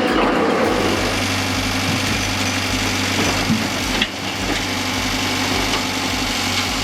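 An engine idling steadily, with a single sharp click or knock about four seconds in.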